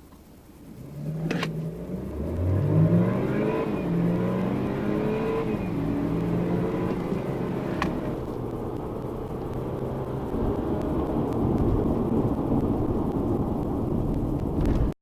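BMW car engine accelerating hard from a standstill: the revs climb and drop back at each of several quick upshifts, then the engine pulls steadily. There are two sharp clicks, one near the launch and one about halfway through.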